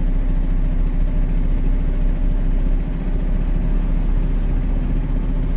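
Dump truck's diesel engine running steadily with a constant low rumble and a steady hum.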